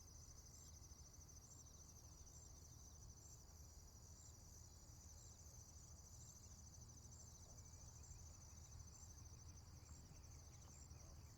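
Faint, steady trilling of insects, pulsing evenly, over a low steady hum.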